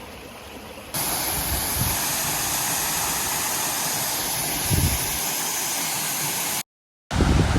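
Steady loud rushing noise with no tone in it, starting suddenly about a second in and cutting off abruptly near the end.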